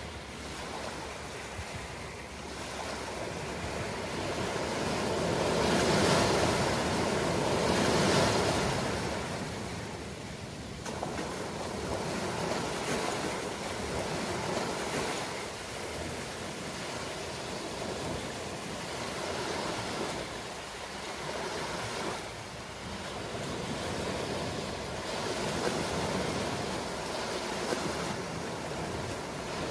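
Ocean waves washing onto a shore, a steady surf hiss that swells and recedes every few seconds, loudest about six to eight seconds in.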